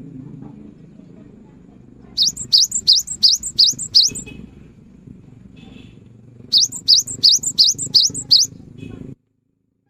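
Cinereous tit (gelatik batu) singing: two runs of rapid, high, sharply upward-sweeping notes, about four a second, over a steady low hum. The sound cuts off abruptly about nine seconds in.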